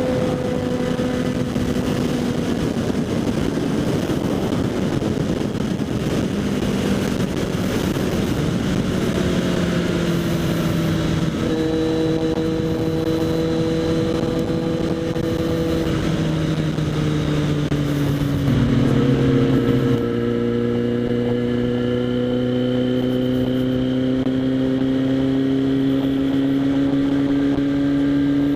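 Kawasaki Z800's inline-four engine through a LeoVince SBK aftermarket exhaust, heard from a helmet chin mount while riding. The engine note holds fairly steady, with a stretch of rushing wind and road noise in the first third. It drops in pitch about two-thirds of the way through, then slowly climbs again.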